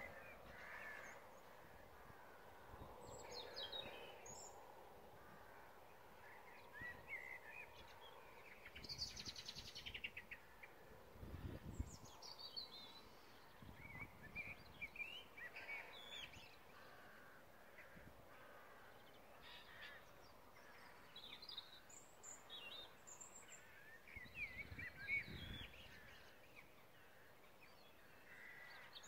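Faint birdsong and bird calls, scattered short chirps through the quiet, with two brief low rumbles, one before the middle and one near the end.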